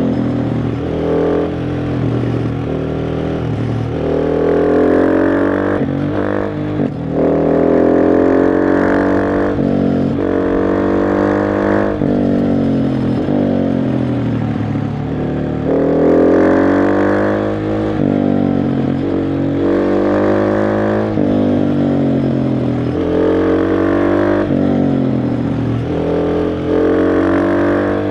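KTM 690 SMC R's single-cylinder engine under way, its pitch climbing and dropping back again and again as the bike accelerates and rolls off.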